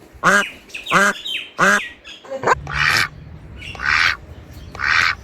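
Repeated short animal calls. The first come quickly, about 0.7 s apart. After a change about two and a half seconds in, harsher calls follow about once a second over a low rumble.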